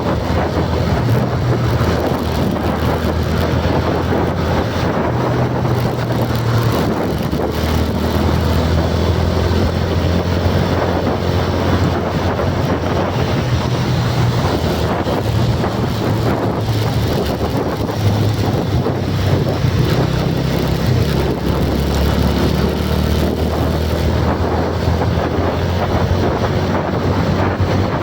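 Steady low rumbling noise with wind buffeting the microphone.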